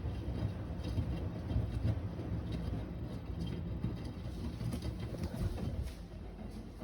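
AEG Öko Lavamat 72620 front-loading washing machine running on an Easy Care 60°C wash, a steady low rumble from the motor and turning drum with faint clicks and knocks. The rumble drops in level about six seconds in.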